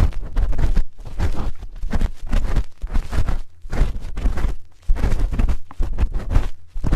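Spoon scraping and rubbing over an ear microphone, ASMR-style ear cleaning: irregular close-up strokes with a heavy low rumble from contact with the mic, broken by a few short pauses.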